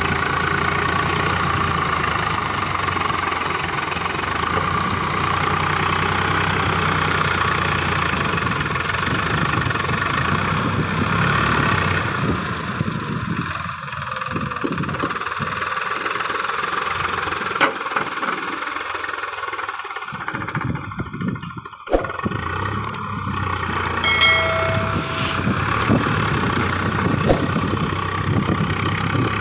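Swaraj 855 FE tractor's diesel engine running steadily. About halfway through its sound turns uneven, dipping and changing, with a sharp knock near the two-thirds mark.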